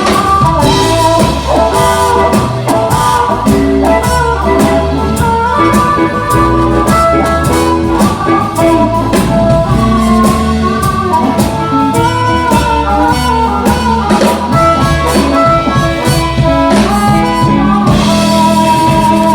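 Live blues band: a harmonica plays held and bent lead notes over guitar and a steady drum beat.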